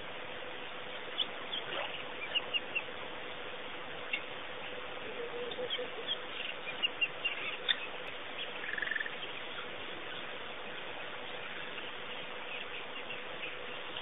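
Small birds chirping in short, high calls over a steady hiss and a faint steady hum, the chirps mostly in the first half, with one brief lower call about nine seconds in.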